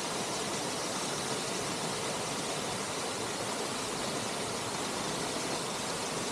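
Waterfall splashing steadily into the river: a constant, even rush of falling water.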